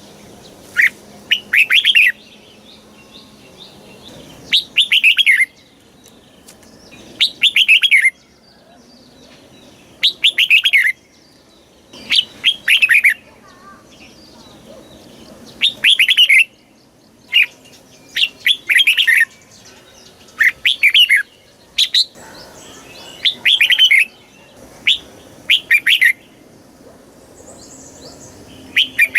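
Red-whiskered bulbul singing. It gives short, bright, warbled phrases of about a second each, repeated every two to three seconds.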